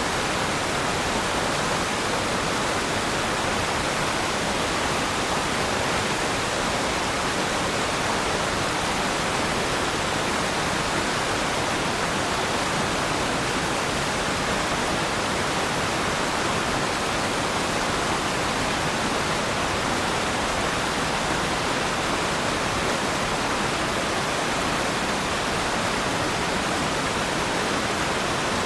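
Waterfall: falling water as a steady, even rush, unchanging in level.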